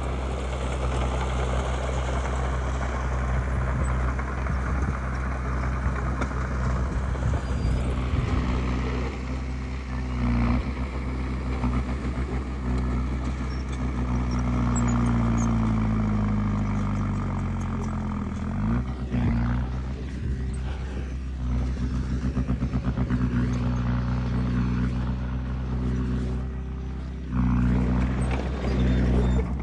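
Heavy diesel earthmoving machinery running steadily under load. About halfway through, the engine note slides down in pitch, and near the end the note shifts again.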